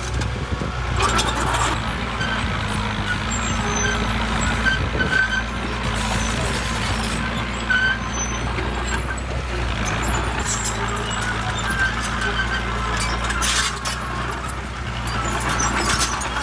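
Heavy diesel earthmoving machinery running steadily, with a few short knocks or clanks and brief squeaks over the engine.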